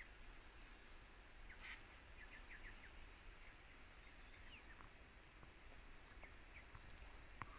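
Near silence with a low outdoor background hiss, broken by a few faint, short bird chirps in a quick run about two seconds in and a couple of faint ticks later.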